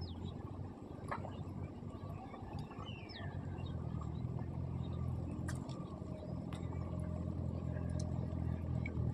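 Steady low engine hum that grows a little louder about four seconds in, with a few faint chirps and light clicks over it.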